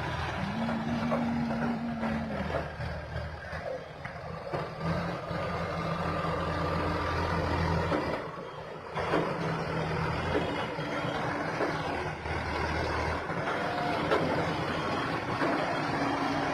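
Heavy diesel engine of a mobile crane running during a girder lift, its low note swelling and easing, with a short steady tone near the start.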